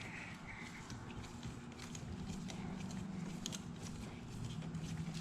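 Faint, irregular light clicks of hand tools working bolts out of a two-stroke motocross engine's crankcase, over a steady low hum.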